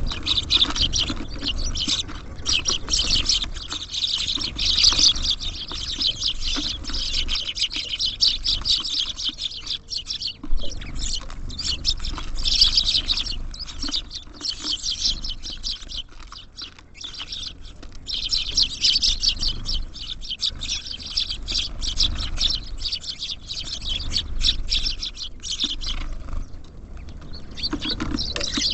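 Tits and sparrows at a bird feeder chirping and twittering in dense stretches that come and go, with short clicks and taps among the calls.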